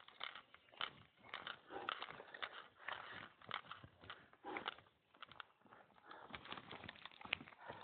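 Footsteps of a hiker walking down a mountain trail: irregular crunching and scuffing steps, about two or three a second.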